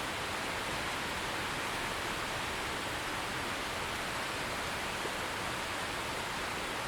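Steady rain falling, an even hiss that does not rise or fall.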